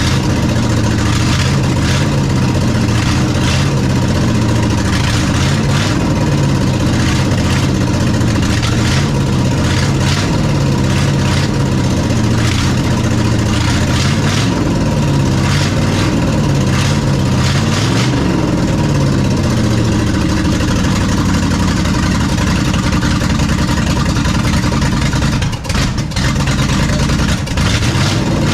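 Small-block V8 race engine running at a loud, steady idle, its revs drifting gently up and down.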